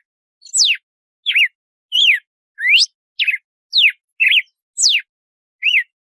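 Red-cowled cardinal (galo-de-campina) singing its 'açoite' song: a run of about nine clear whistled notes, some sliding up and some sliding down in pitch, about one and a half notes a second with short silences between them.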